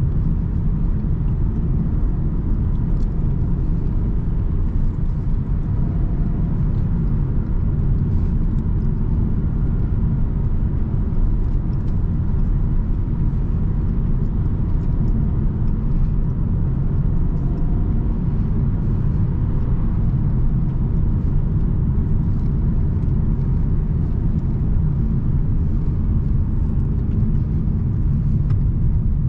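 A car being driven at a steady pace: an even low rumble of engine and road noise.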